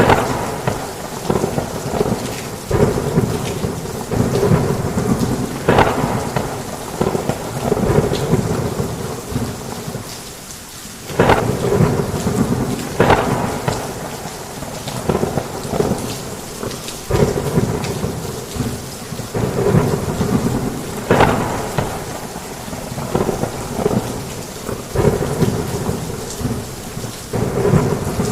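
Heavy rain with thunder rumbling almost without a break, and many sharp cracks and splashes; the rumble eases briefly about ten seconds in, then returns.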